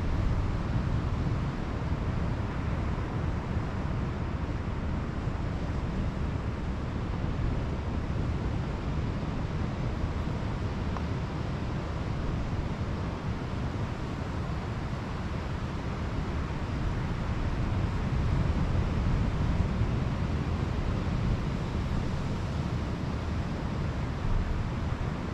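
Pacific Ocean surf washing steadily onto the beach, mixed with wind buffeting the microphone; the wash swells a little about three-quarters of the way through.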